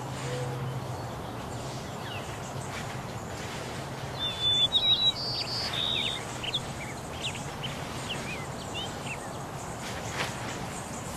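Small birds chirping over a steady outdoor hiss, with a louder run of short, high chirps about four to five seconds in.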